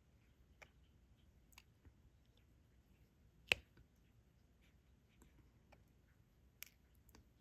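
Scattered soft clicks and taps of a diamond-painting drill pen picking up resin drills and pressing them onto the sticky canvas, at an irregular pace, with one sharper click about three and a half seconds in.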